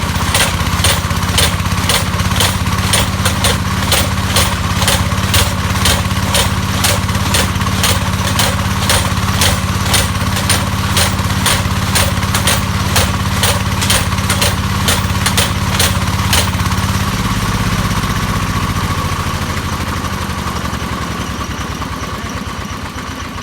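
Engine-driven percussion drilling rig running, its hammer striking in a steady rhythm of about two to three blows a second. The blows stop about 16 seconds in, the engine note drops, and the machine runs on more quietly.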